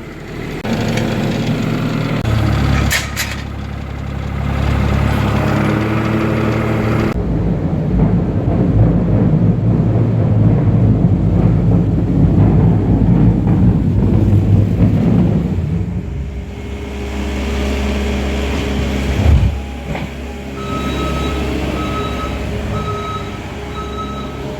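Farm tractor engine running steadily, its sound shifting abruptly a few times, with a regular electronic beep repeating about twice a second near the end.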